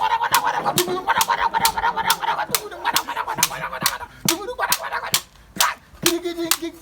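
Rhythmic hand-struck percussion for African dancing, sharp slaps or claps about three to four a second, with voices singing along.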